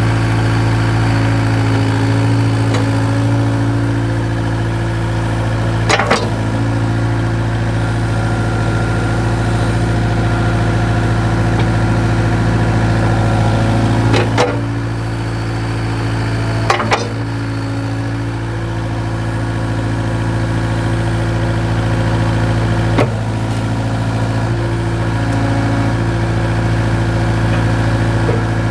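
An engine running steadily at a constant speed, with four sharp clanks spread across the stretch, the louder two close together about halfway through.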